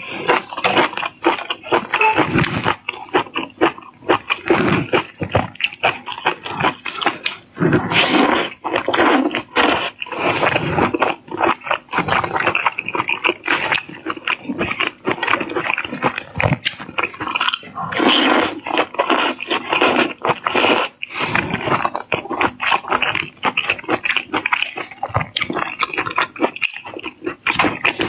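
Close-miked eating sounds: continuous, rapid chewing, mouth smacking and crunching while eating seafood.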